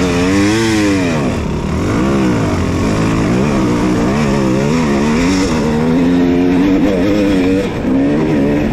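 Dirt bike engine revving, its pitch rising and falling: two big sweeps in the first couple of seconds, then quicker, smaller throttle changes that settle into a steadier pitch about six seconds in.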